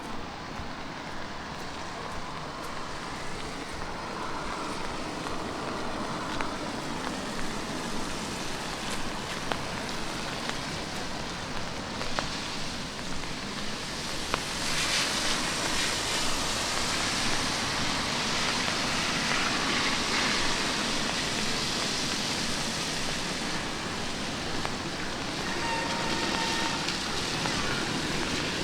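Light rain and city street ambience: a steady hiss of rain on wet pavement with distant traffic. It grows louder and brighter about halfway through, and a faint steady tone joins near the end.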